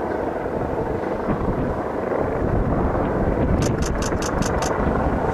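Steady din of a large outdoor crowd, with wind rumbling on the microphone. About three and a half seconds in, six quick high chirps sound in a row.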